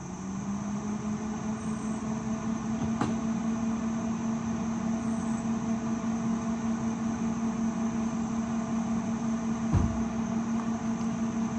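Jump-started car engine running at a steady idle. It comes up and settles into the idle right at the start, with a sharp click about three seconds in and a low thump near the end.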